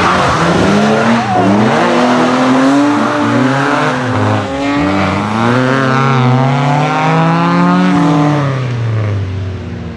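Rally car engine revving hard, its pitch rising and falling several times, with tyre squeal; near the end the revs drop and the sound fades.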